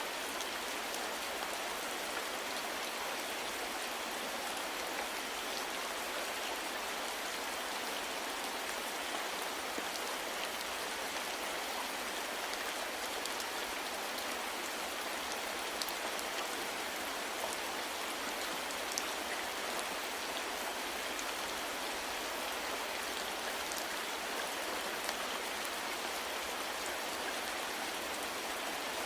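Soft rain falling steadily: an even hiss with scattered faint drop ticks and little low rumble.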